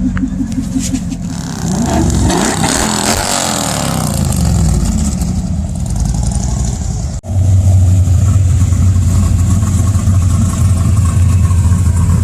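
Car engines running loudly, with a rev that climbs and falls back about two to four seconds in. After a sudden break a little past halfway, a deep, steady engine rumble follows.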